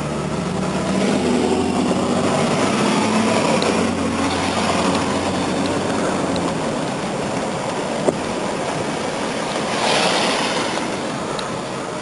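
A car driving: its engine running under steady road and wind noise, the engine note rising as it picks up speed in the first few seconds.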